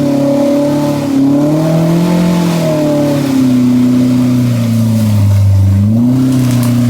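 Side-by-side UTV engine revving, its pitch rising and falling as the throttle is worked, dipping lowest about five seconds in before climbing again.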